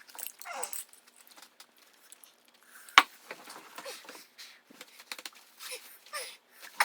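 Sped-up chewing of dill pickle chips: a quick scatter of small crunches and wet mouth clicks, with one sharp click about three seconds in.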